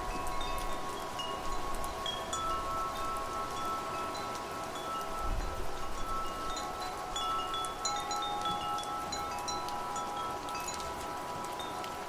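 Wind chimes ringing, with long overlapping sustained tones and scattered short higher notes, over a steady hiss of wind and rain. A low gust of wind rises about five seconds in.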